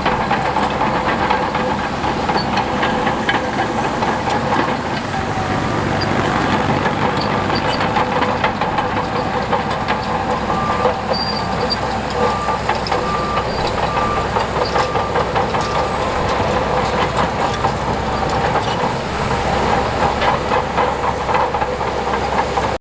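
Heavy earthmoving machinery at work: a diesel engine running steadily under a continuous rattle and clank of metal. A faint run of evenly spaced beeps comes in the middle.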